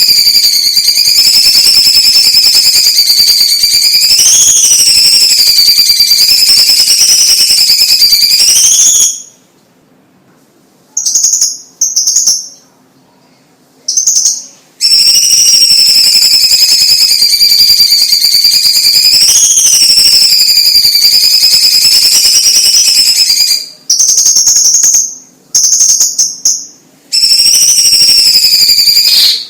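Leafbird (cucak cungkok, the Chinese green leafbird) singing loud, high, wavering whistled song: a long unbroken phrase of about nine seconds, a few short bursts, another long phrase, then more short bursts near the end.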